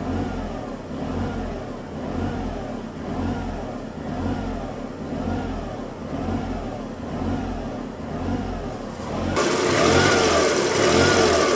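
Small car engine running, its pitch rising and falling evenly about every three quarters of a second. About nine seconds in it becomes suddenly louder and hissier.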